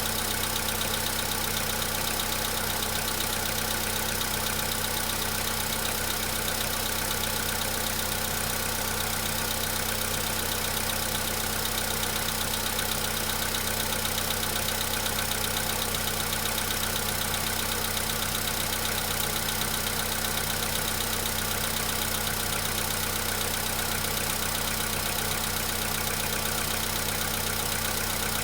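Volkswagen Polo Sedan's 1.6-litre CFNB four-cylinder petrol engine idling steadily after a cold start in frost, with a fast, even knocking. This is the cold-engine knock that dies away as the engine warms up.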